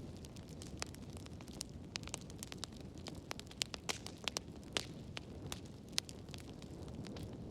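Wood fire burning in a fireplace: a steady low rumble of flames with frequent sharp, irregular crackles and pops from the burning wood, busiest in the middle.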